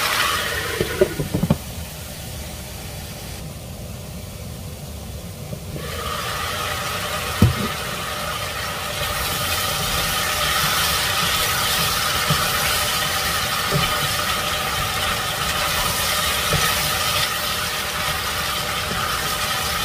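Diced potatoes and smoked sausage sizzling as they fry in a nonstick pan, stirred with a silicone spatula. A couple of light clicks and one sharp knock come in the first half. The sizzle grows louder and fuller after that.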